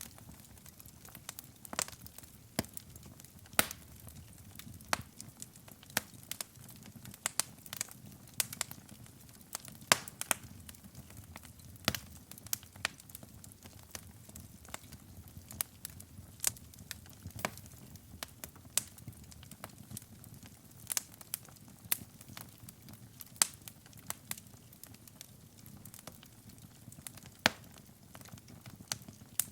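Wood fire burning in a fireplace: irregular sharp crackles and pops, a few louder snaps, over a low steady rumble of the flames.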